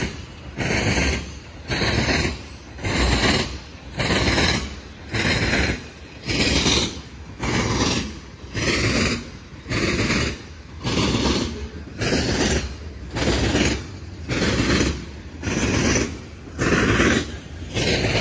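Freight train of hopper cars rolling past close by, its wheel-on-rail noise surging and dropping about once a second in a steady rhythm as car after car goes by.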